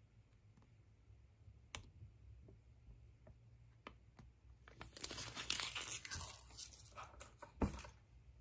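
Wrapping being handled: a few small clicks and taps, then about three seconds of tearing and crinkling, with a sharp thump near the end.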